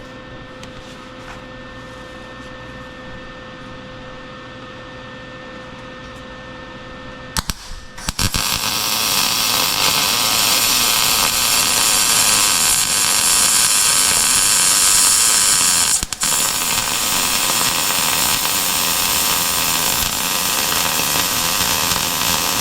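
Arc welding on a steel exhaust pipe, a loud steady crackling sizzle that starts about eight seconds in after a quieter hum and breaks off briefly once, partway through, as the pipe joint is tacked and its gap filled.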